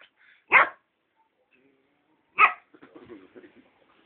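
A dog barking twice, single sharp barks about two seconds apart, with faint irregular sounds after the second bark.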